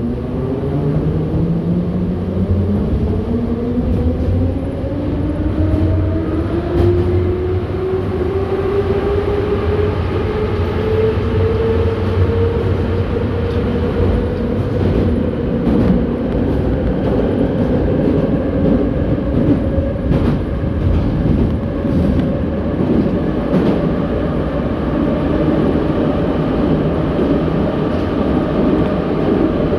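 Metro train of the 81-717.6 type heard from inside the car as it pulls away. The traction motors whine, rising in pitch for about the first ten seconds as the train accelerates, then hold a steady whine at running speed over the rumble of the wheels, with occasional clicks from the track.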